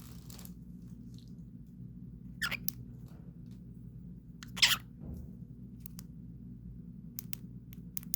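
Cockatiel giving two short, harsh chirps a couple of seconds apart, the second louder, followed near the end by a few sharp clicks over a steady low hum.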